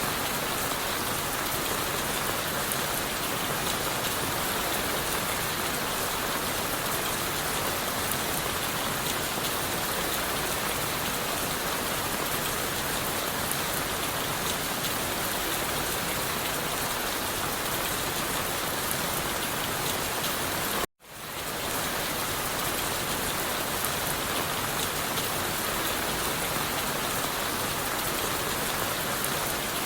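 Steady rain falling on leaves and wood. About two-thirds of the way through it cuts out abruptly for an instant, then quickly swells back to full.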